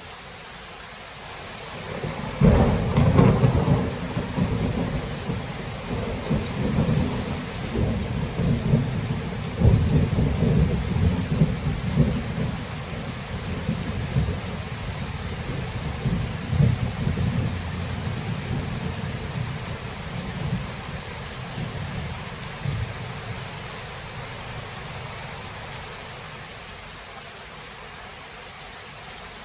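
Thunderclap about two seconds in, then rumbling in waves for some twenty seconds before fading away, over a steady hiss of rain.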